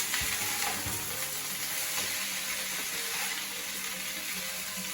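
Boiled noodles and chicken sizzling in hot oil in a pan as they are stirred together, with a steady hiss. A few light knocks of the stirring utensil against the pan come in the first second.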